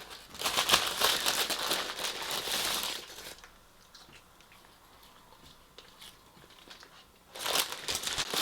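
Takeaway delivery bags and food packaging being rustled and crinkled as they are handled. The crinkling stops for a few seconds in the middle, then starts again near the end.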